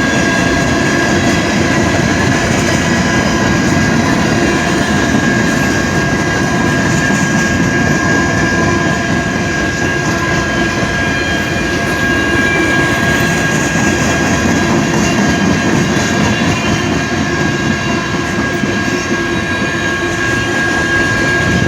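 Freight train rolling past on the CSX line: a steady, loud rumble of railcars, with a thin high-pitched tone held steadily over it.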